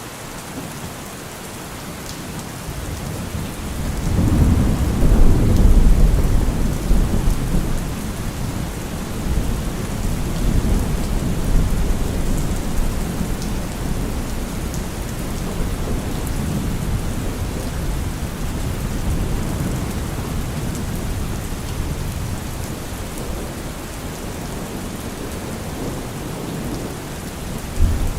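Heavy rain pattering steadily on a car roof, with a long roll of thunder that swells about four seconds in and rumbles away slowly.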